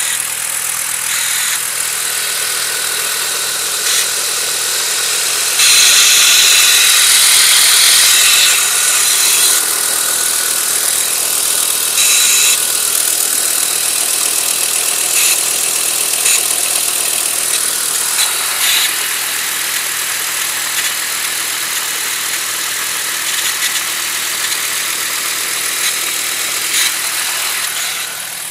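A vehicle's engine running with a loud, steady hissing whir on top. The whir swells irregularly: a surge lasting about three seconds starts about six seconds in, and shorter ones follow around twelve, fifteen and nineteen seconds.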